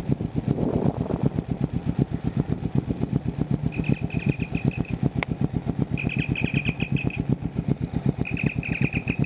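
Motorcycle engine idling with an even low pulse, picked up by a microphone inside the rider's helmet. Three short bursts of a high warbling electronic tone sound about four, six and eight seconds in: the outgoing phone call ringing through the helmet headset.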